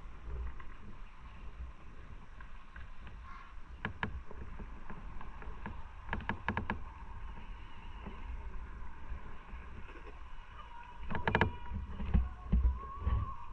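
Motorcycle on the move: a steady low rumble with wind noise on the microphone, broken by short clusters of sharp clicks about 4, 6 and 11 seconds in.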